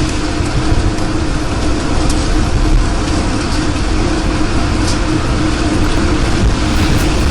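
Tornado wind blowing loudly and steadily: a constant rushing noise over a heavy low rumble.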